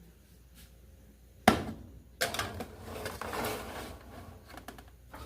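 Kitchenware being handled: one sharp knock about a second and a half in, then a couple of seconds of clattering and scraping.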